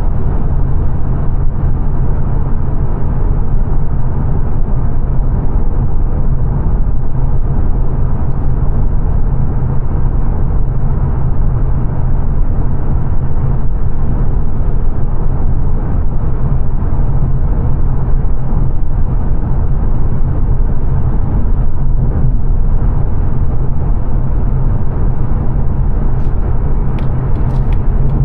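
Steady low road and tyre noise with engine hum inside the cabin of a 2022 Mazda 3 saloon cruising at motorway speed, with a few faint clicks near the end.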